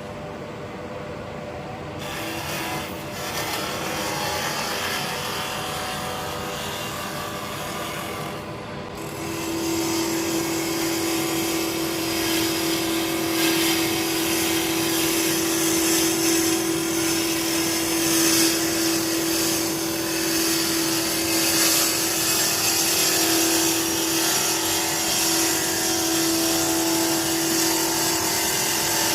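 Wood lathe running with a bowl gouge cutting into spinning burr elm, a hissing scrape over the steady hum of the lathe and dust extractor. The cutting starts about two seconds in and gets louder from about nine seconds, with a steady hum tone.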